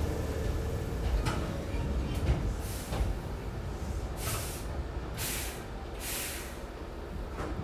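Hankyu 6300 series train at a standstill in a station: the low running rumble dies away, a few sharp clicks sound, and then three short hisses of released air follow each other about a second apart from the car's pneumatic brake and door gear.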